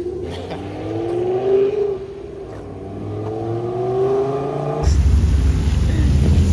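Car engine accelerating, its pitch rising in two long sweeps with a brief drop between them like a gear change. It cuts off abruptly and a loud steady low rumble follows.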